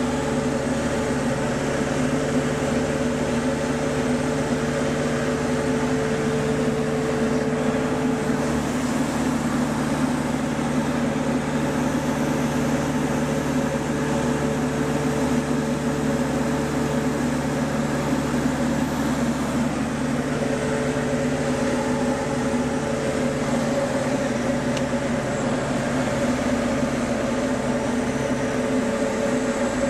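Small airplane's piston engine and propeller running steadily, a constant drone with a higher hum that fades in and out.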